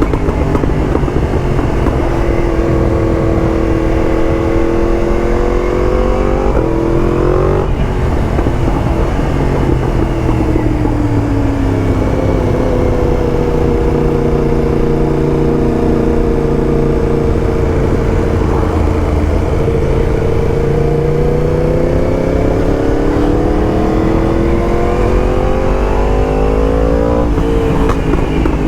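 Yamaha MT-10's crossplane inline-four running through a titanium Akrapovič race exhaust under way: the engine note climbs with the revs, drops sharply at an upshift about eight seconds in, sinks and then climbs slowly again, and drops once more at another upshift near the end.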